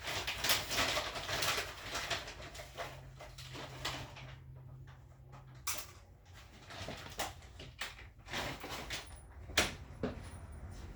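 Rustling and handling noise, then a low steady hum for about three seconds, then a string of sharp clicks and knocks like doors or cupboards being worked.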